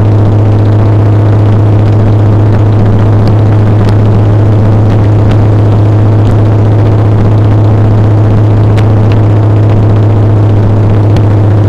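Motorcycle engine running at a steady, unchanging speed while riding: a loud, deep, constant drone with road and wind noise over it.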